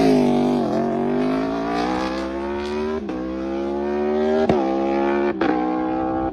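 Superbike engine accelerating hard through the gears: its pitch climbs steadily and drops sharply at each of several quick upshifts.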